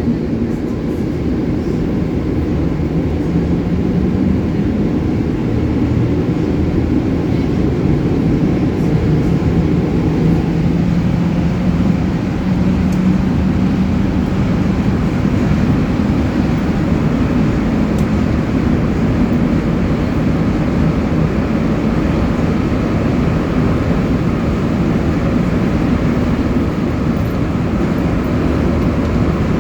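Montreal MR-73 rubber-tyred metro car running between stations, heard from inside the car. It makes a steady loud rumble with a low hum that climbs slightly in pitch over the first several seconds, then holds.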